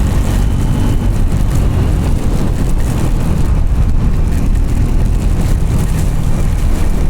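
Triumph Scrambler's parallel-twin engine running steadily while under way, with a steady hiss over it.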